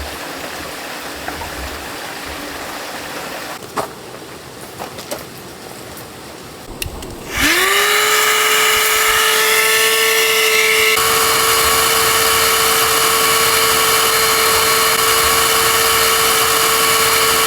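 A small electric motor spinning up: a whine that glides up to speed about seven seconds in and then runs at a steady pitch. Before it there is a steady hiss and a few light clicks.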